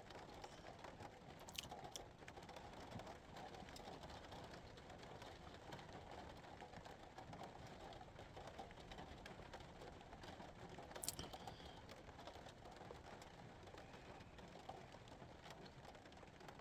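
Steady rain falling on the roof, heard faintly as a constant hiss full of small ticking drops, with a sharper tap about a second and a half in and another about eleven seconds in.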